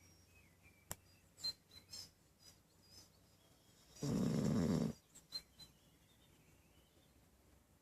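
Golden Retriever snoring in its sleep: one loud, rasping snore about four seconds in, lasting just under a second, with a few faint clicks before it.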